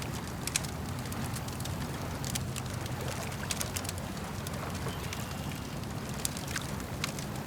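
Campfire crackling, with scattered sharp pops and snaps at irregular intervals, over a steady low wash of lake water.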